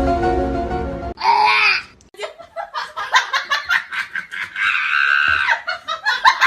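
A second of music, then hard human laughter in quick bursts, with a high scream held for about a second near the end.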